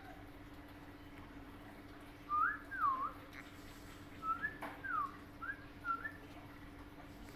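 Pet parrot whistling: two rising-and-falling whistles about two seconds in, then a quicker run of short up-and-down whistled notes from about four to six seconds, over a faint steady hum.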